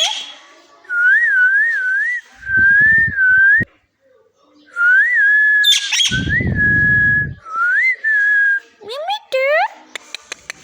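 Parrot whistling: a series of clear, wavering whistled notes in short phrases with pauses between them, ending in a couple of rising glides. A low rumbling noise comes in under the whistles twice.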